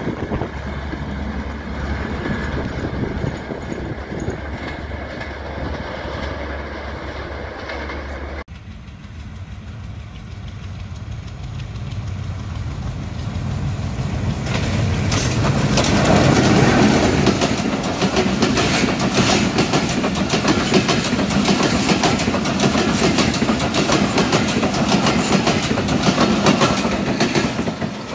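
Passenger trains passing. First a train runs in along a platform. About eight seconds in the sound cuts to a second train hauled by a diesel locomotive, which grows louder until it is close at about sixteen seconds; its coaches then roll past with a dense rattle of wheel clicks.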